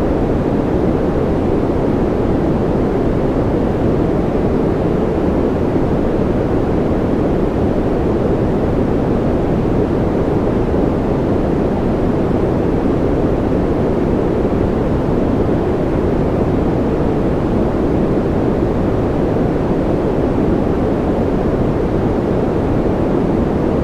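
Steady, unbroken noise for sleep and concentration, deep and rumbly rather than hissy, with no separate drops or changes.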